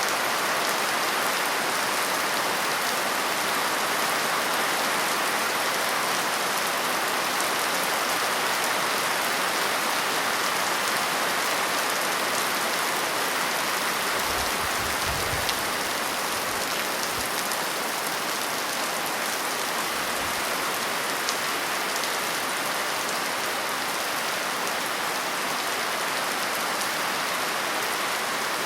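Steady, heavy rain falling and pattering on surfaces, an even hiss throughout, with a couple of brief low rumbles about halfway through.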